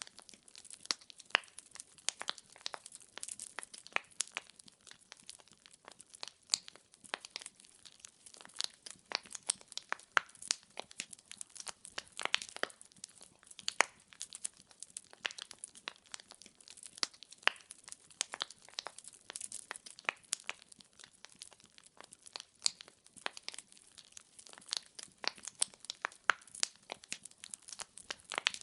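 Wood fire crackling: logs popping and snapping in dense, irregular clicks over a soft hiss.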